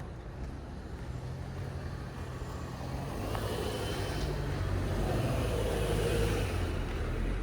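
A motor vehicle drives past on the street, its low engine hum and tyre noise growing louder from about three seconds in and peaking near the end.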